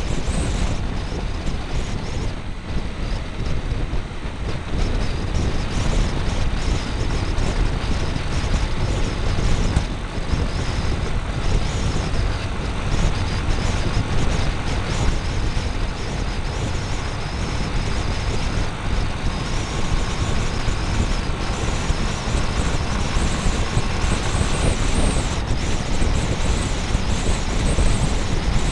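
Motorbike being ridden, heard from a camera mounted on the bike: a loud, steady mix of engine, road and wind noise with heavy low rumble.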